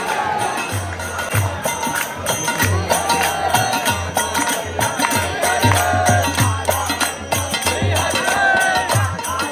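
Devotional music with a regular drum beat and constant jingling percussion, with voices singing a melody over it.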